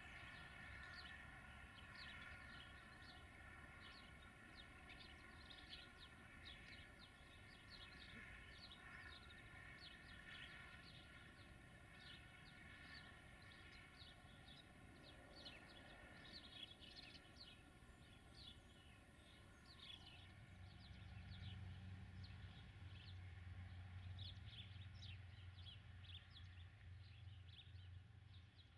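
Faint outdoor ambience of many small birds chirping and singing. A low rumble joins in about two-thirds of the way through.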